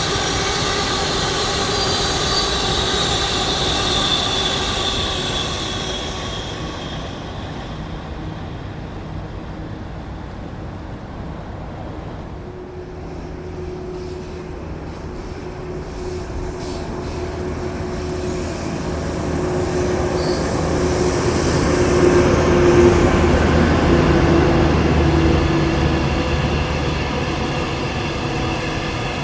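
Trains running on the Guangzhou–Shenzhen railway. A high whine fades as one train moves off over the first few seconds. Then, after a quieter lull, another train comes closer and passes, loudest about two-thirds of the way through, with a steady motor hum.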